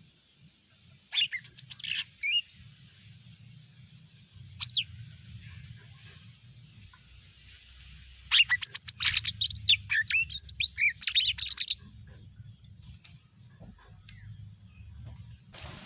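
Green leafbird (cucak ijo) singing in short bursts of quick, sharp whistled and chattering notes: a burst about a second in, a single phrase near five seconds, and a longer, louder run from about eight to twelve seconds. A faint low hum runs underneath.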